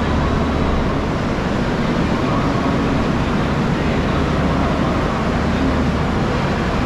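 Station ambience beside a standing double-decker passenger train: a steady low hum under an even wash of noise, with no sudden sounds.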